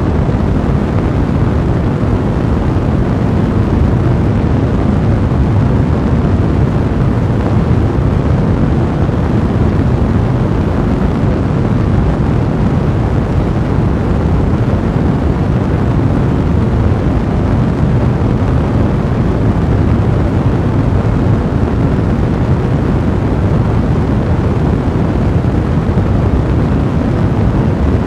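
Fire blazing with a steady, low roar and no sharp pops standing out.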